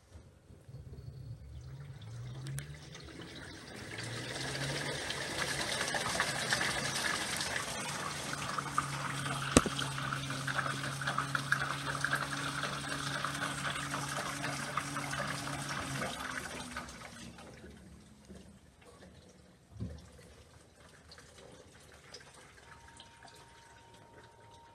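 Water rushing through an LG 6.5 kg washing machine, with a steady low hum underneath. The sound builds over the first few seconds, then fades out at about 17 s. A single knock follows a few seconds later.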